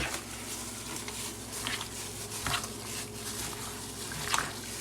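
Seasoned raw chicken strips being mixed by hand in a bowl to work in the seasoning: soft, wet squishing and slapping, coming irregularly a handful of times over a low steady hum.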